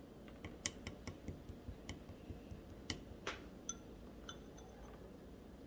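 Clear, jelly-textured slime being worked by hand, making faint, irregular sharp clicks and small pops, a few of them with a short ringing tone.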